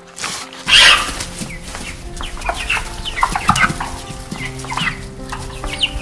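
A flock of hens clucking in many short calls over background music with steady held notes, with a loud rustling burst about a second in.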